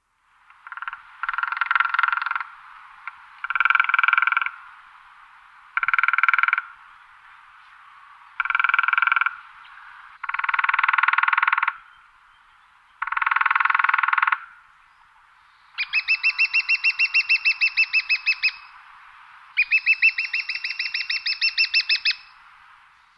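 Woodpecker drumming: a series of rapid drum rolls of its bill on resonant wood, each roll about a second long and repeated every couple of seconds. Near the end come two longer rolls with more clearly separated strikes and a higher ring.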